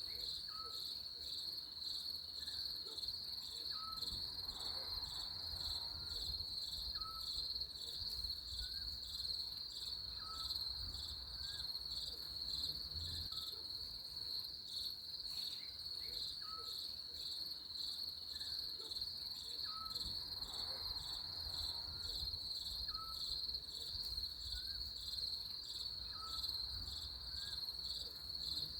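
Crickets chirping in a steady, continuous high trill, with a faint short chirp repeating every second or so lower down.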